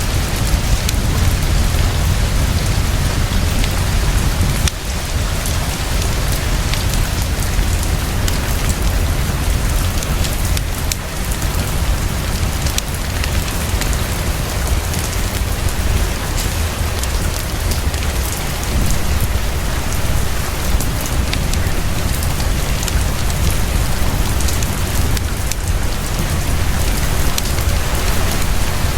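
Heavy rain pouring fast and steadily, with a deep low rumble underneath. Scattered sharp crackles from a wood fireplace run through it.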